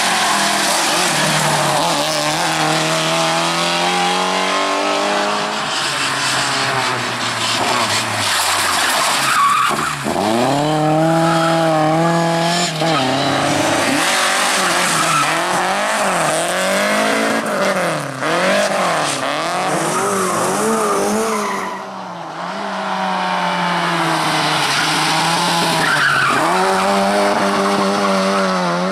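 Rally car engine revving hard, its pitch climbing and falling again and again as the driver shifts gear and lifts and jabs the throttle. Tyres squeal and skid under it. The sound dips briefly about two-thirds of the way through, then picks up again.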